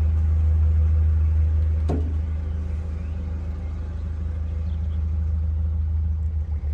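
Narrowboat's inboard diesel engine running steadily under way, a constant low hum.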